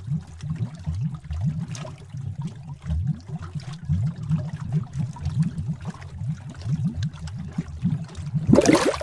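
Bubbling witch's-cauldron sound effect: thick liquid bubbling with a constant run of low, deep bloops, and one louder gurgling burst near the end.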